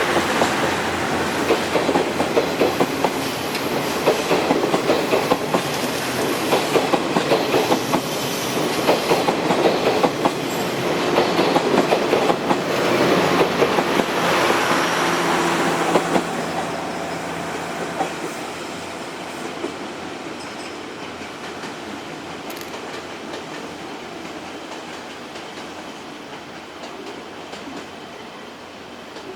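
Wheels of a locomotive-hauled passenger coach clicking over rail joints at speed, heard from inside the coach. The clicking and running noise grow steadily quieter over the second half.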